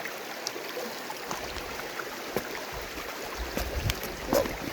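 River water rushing steadily, with scattered sharp clicks and knocks, several of them in the second half, and a brief low rumble past the middle.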